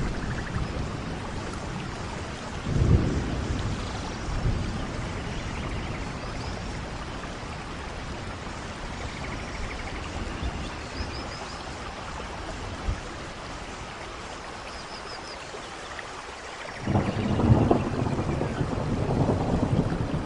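Steady rain with thunder rumbling. Brief low rumbles come a few seconds in, and a louder, rolling peal of thunder starts near the end.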